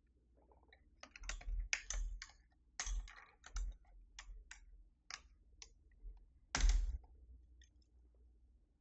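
Plastic keycaps being handled and pressed onto a Keychron V6 Max mechanical keyboard: a run of irregular clicks and taps, the loudest about three-quarters of the way through.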